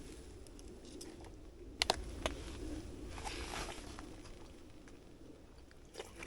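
Eating from a foil camp-meal pouch: a few sharp clicks of a utensil against the pouch and a short crinkling rustle about three seconds in, over a low steady rumble.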